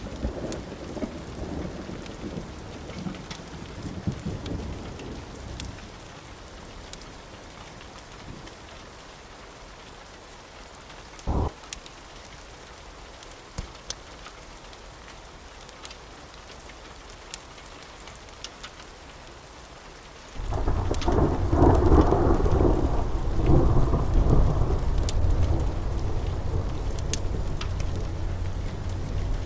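Steady rain with thunder: a rumble dies away over the first few seconds, faint scattered clicks sound over the rain, and about two-thirds of the way through a loud roll of thunder breaks in suddenly and keeps rumbling.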